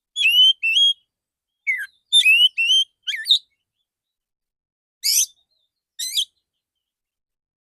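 Male oriental magpie-robin singing: loud, clear whistled notes with quick rising slurs, in a run of phrases over the first three and a half seconds, then two short single phrases after a pause.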